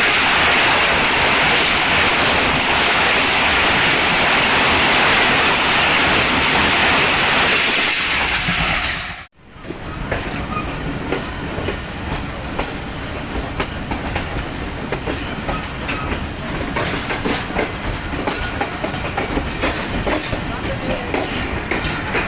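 Passenger train running on the rails: a loud steady rushing noise, then after a sudden brief drop-out about nine seconds in, irregular wheel clatter and clicks over the rail joints.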